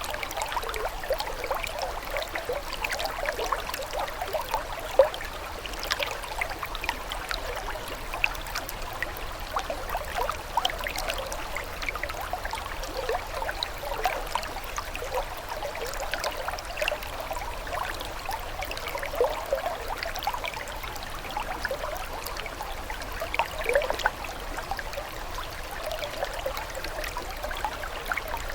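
Running water trickling and gurgling steadily, with many small irregular splashes throughout.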